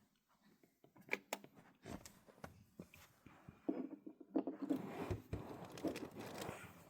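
Handling noises: a run of irregular clicks and knocks, then a longer stretch of rustling and scraping in the second half.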